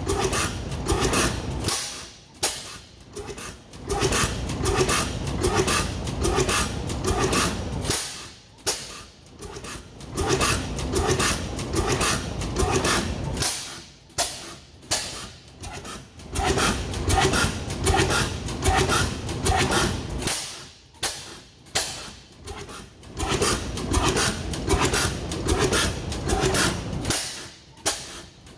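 25 hp Foos Type S hit-and-miss engine running on propane: runs of evenly spaced firing beats broken by about five pauses of one to two seconds where it skips firing and coasts on its flywheels, the governor holding its speed.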